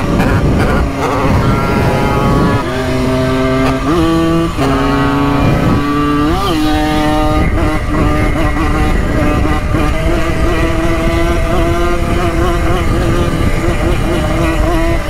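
Simson moped's small two-stroke single-cylinder engine running hard under way. The engine note steps up and down several times as the revs change, with a quick rev rise and fall about six and a half seconds in.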